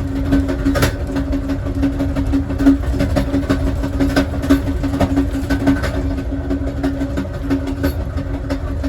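Passenger train car rolling along the track: a steady low rumble with a steady hum over it and scattered clicks and knocks from the wheels and rails.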